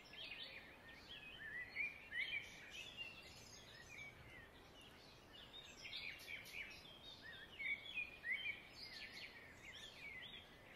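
Faint birdsong: many quick, high chirps and twitters that slide up and down in pitch, in an unbroken string.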